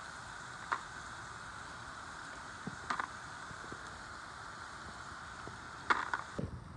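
Chunks of battered beaver meat frying in oil in a black wok, a steady sizzle with three sharp clicks. The sizzle cuts off near the end.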